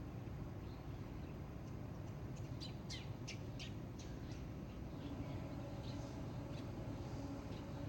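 Small songbirds chirping: a quick run of short, sharp notes about halfway through, then scattered single chirps, over a steady low background rumble.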